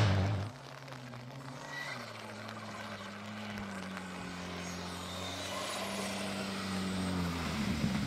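Rally car engine running hard at some distance, a steady drone that grows gradually louder as the car approaches.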